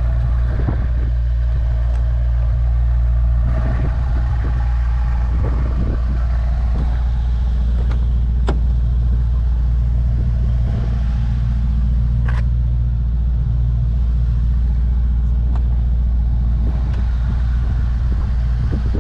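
The 2021 Mercedes-AMG E63 S wagon's twin-turbo V8 idling steadily with a deep, even hum, with a few light clicks about eight and twelve seconds in.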